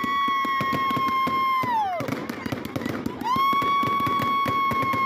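Two long firework whistles, each gliding up to a steady high pitch, holding for about two seconds and then sliding down as it dies. Dense crackling and popping from fireworks runs underneath.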